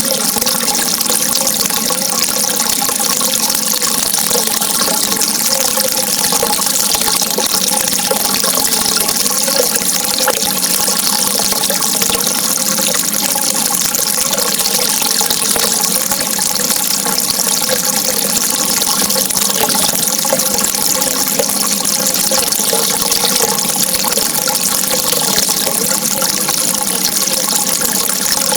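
Steady running water, a continuous rush with a wavering gurgle through it.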